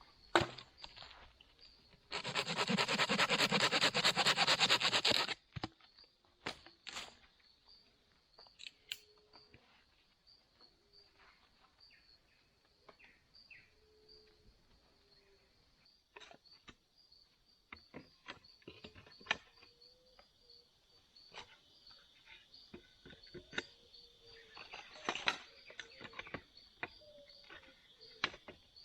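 A steady, pulsing insect drone with many scattered sharp snaps and knocks of wood being handled. A loud burst of noise lasts about three seconds near the start.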